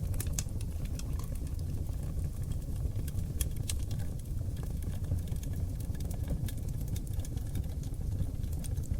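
Oak log fire burning in a fireplace: a steady low rumble of flames with frequent small crackles and sharp pops scattered throughout.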